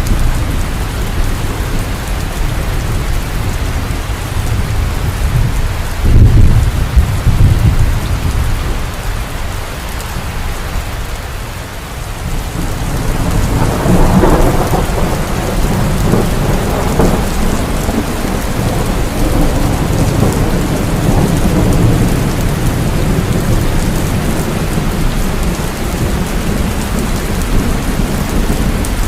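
Heavy rain falling steadily in a thunderstorm. A sudden deep thunder clap comes about six seconds in, and a long roll of thunder begins near the middle and rumbles on under the rain.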